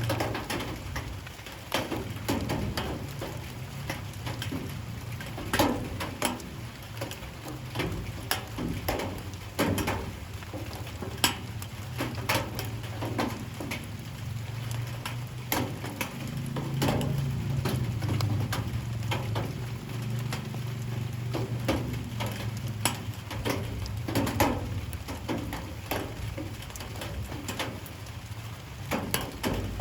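Light rain, with individual drops landing in irregular, sharp taps over a soft steady patter. A low steady rumble runs underneath and swells for a few seconds in the middle.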